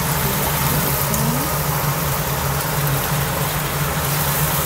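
Chili paste sizzling steadily in hot oil in a wok, with a steady low hum under it.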